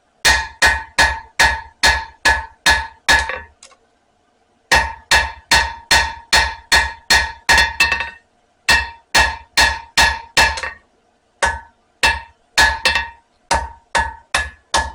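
Hand hammer striking hot spring steel on an anvil, about three ringing blows a second in runs with short pauses, sparser near the end, as the bar is drawn out to length.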